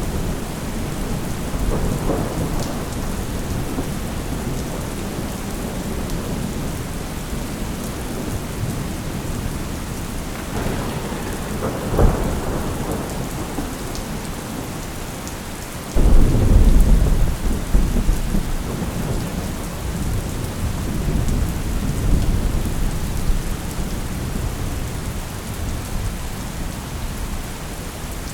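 Steady rain with rolling thunder. There is a rumble about two seconds in and a sharp crack a little before the middle. Just past the middle a loud, deep rumble starts abruptly and rolls on for several seconds, then fades into lighter rumbles.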